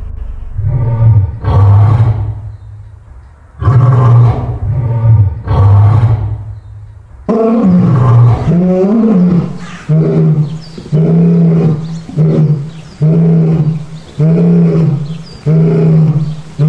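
Lions roaring: a run of loud, low roars. After a break, a single longer roar follows, then a steady series of short grunts about once a second, the grunting that ends a lion's roaring bout.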